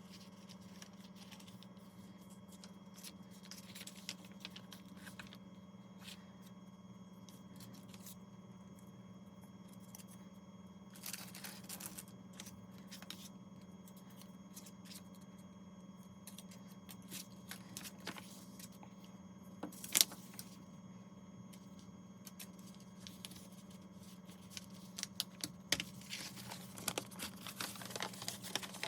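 Faint handling of paper and craft materials on a work surface: quiet scrapes, rustles and light taps, with one sharp click about two-thirds of the way through and a run of small ticks near the end, over a steady low hum.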